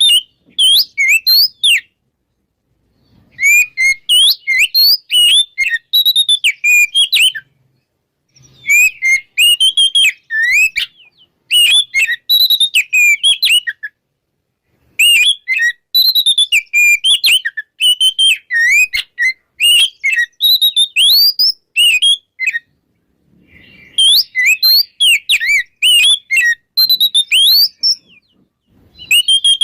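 Oriental magpie-robin (kacer) singing loudly: fast runs of varied, sharply gliding whistled notes, delivered in phrases of two to seven seconds with short pauses between them.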